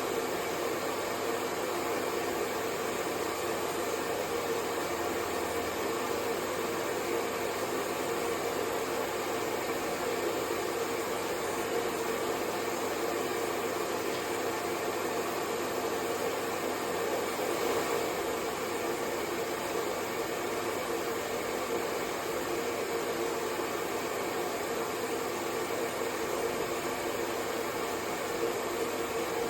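Hair dryer running steadily: a continuous, even whoosh of blown air and motor hum with faint steady tones in it, never changing in pitch or level.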